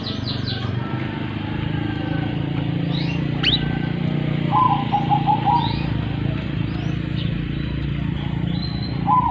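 Domestic canary singing: a fast high trill ending right at the start, a few scattered high chirps, and a low, rapidly pulsed rolling phrase about halfway through and again at the end, over a steady low hum.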